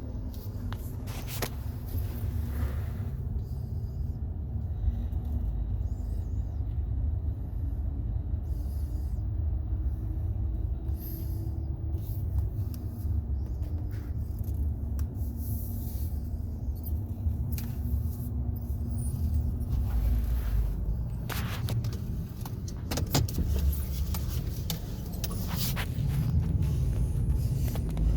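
Vehicle driving slowly: a steady low engine and road rumble, with a faint engine tone that rises and falls, and scattered short clicks.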